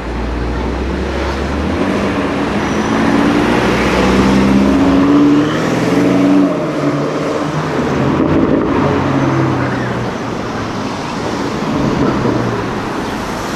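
A high-performance car's engine accelerating, its pitch rising and then falling back at a gear change about six seconds in, before pulling again, over street traffic noise.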